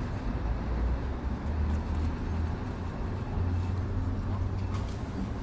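Steady low rumble of road traffic, with no distinct single event standing out.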